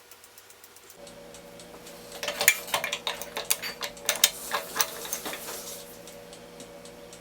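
A quick run of sharp metallic clinks and clicks, loudest about two and a half seconds in, with a faint steady hum underneath.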